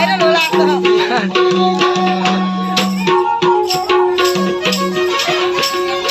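Nepali folk music: a bowed sarangi melody over quick hand-drum strokes on a madal, with a shaken rattle-like jingle keeping time.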